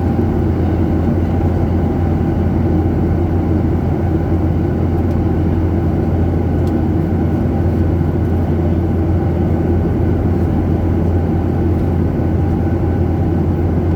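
Jet airliner cabin noise: a loud, steady, low drone of the engines and airflow, unchanging throughout.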